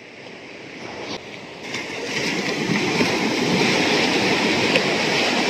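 Sea surf on a sandy beach: a wave rush that swells over the first two seconds into a steady wash of breaking water.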